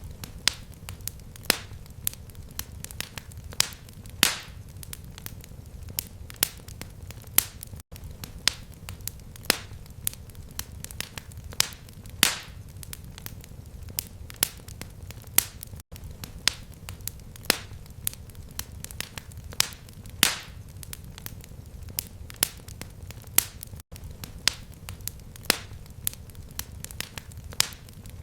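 Fireplace fire crackling: frequent irregular sharp pops and snaps over a low steady rumble of flames, with a brief dropout about every eight seconds.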